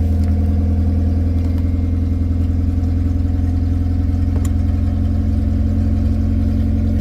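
1999 Honda Civic's four-cylinder engine idling steadily.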